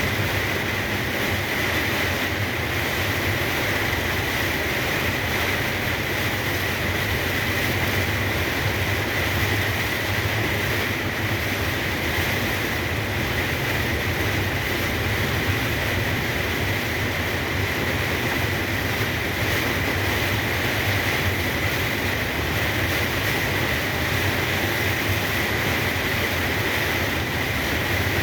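Truck driving on the highway in heavy rain, heard from inside the cab: a steady, unbroken mix of engine drone, tyre noise on the wet road and the hiss of rain.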